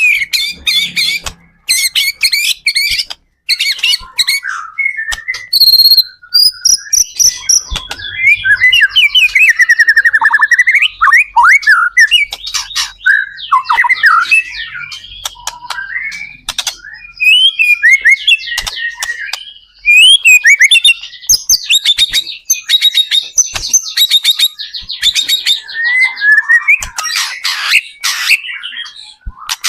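White-rumped shama (murai batu) singing loud, continuous, varied song: rapid whistled phrases, sweeping glides and fast chattering trills, one phrase running into the next.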